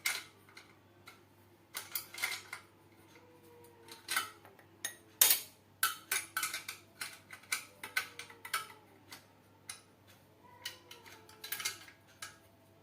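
Metal parts and tools clinking and knocking irregularly as they are handled during assembly of a homemade grinder, with the loudest knock a little over five seconds in.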